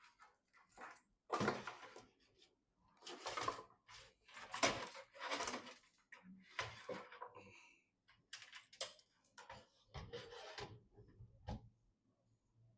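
Handling noises of PC parts being assembled: a series of short rustling and scraping bursts with a few sharp clicks.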